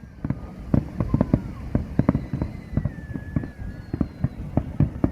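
Fireworks display going off: a rapid, irregular barrage of bangs and pops, several a second over a low rumble, with thin whistling tones drifting through.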